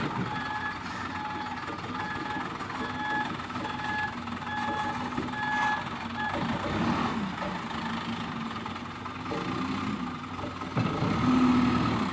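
Truck's reversing alarm beeping at a steady pace, somewhat under two beeps a second, over the truck's running engine; the beeping stops about halfway through while the engine keeps running.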